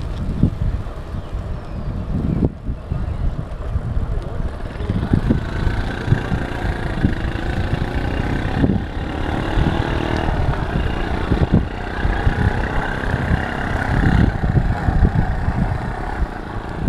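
Wind buffeting the microphone with a low, uneven rumble. From about five seconds in, a motor vehicle engine runs underneath, loudest near the end.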